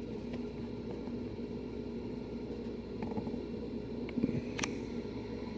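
Steady low background hum with a faint click about four and a half seconds in.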